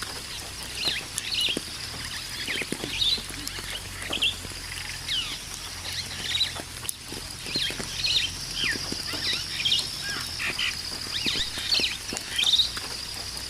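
Rainforest birds calling: many short, quick chirps and whistles overlapping, over a steady high-pitched buzz.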